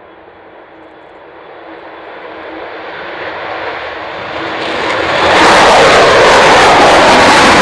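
Avro Vulcan XH558's four Rolls-Royce Olympus turbojets, growing steadily louder as the bomber approaches, then loud and full from about five seconds in.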